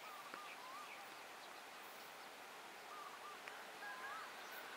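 A bird calling in short, whistled, warbling phrases, repeated a few times over a faint steady outdoor hiss.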